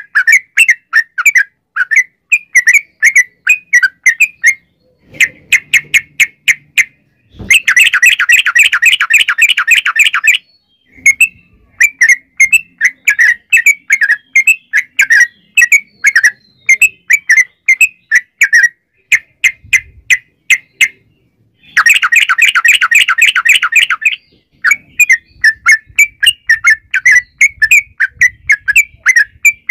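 Yellow-vented bulbul (trucukan) singing: strings of short bubbly chirps, broken twice by a long, rapid trill, once about eight seconds in and again past the twenty-second mark.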